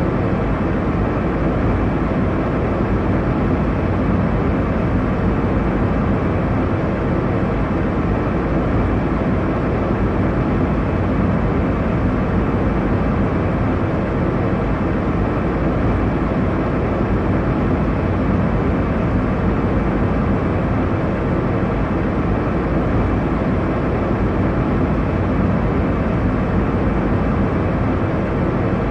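Steady airliner cabin noise in flight: a constant low rush of engine and airflow noise, strongest in the low range, with no changes.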